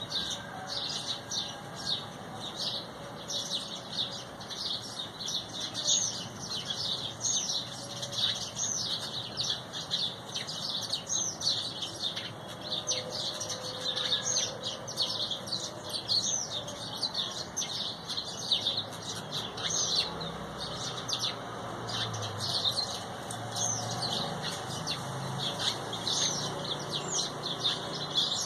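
A flock of small birds chirping: many short, high chirps overlapping in a steady chatter.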